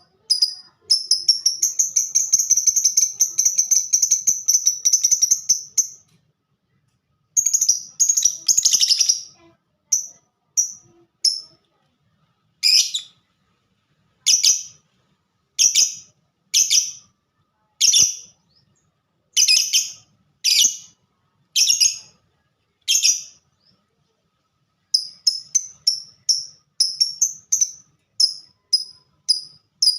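Lovebird chirping with sharp, high calls: a rapid continuous chatter for about five seconds near the start, then separate chirps roughly a second apart, then quick runs of short ticking chirps near the end, the 'ngetik' (typing) style of lovebird song.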